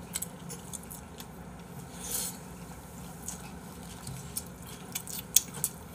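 Quiet chewing of a mouthful of pig's trotters (jokbal) wrapped with buckwheat noodles. Small wet clicks are scattered through it, with a short rustle about two seconds in and a few sharper clicks near the end.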